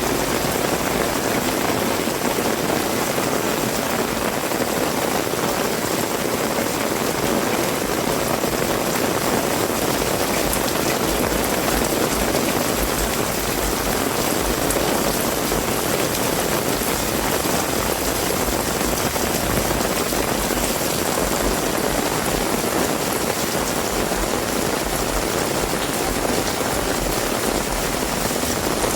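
Heavy rain falling steadily, an even, dense hiss that does not let up.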